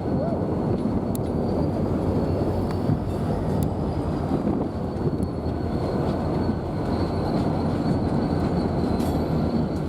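Freight train rolling past with a steady, heavy rumble of wheels on rail, a faint thin squeal held high above it and a few sharp clicks.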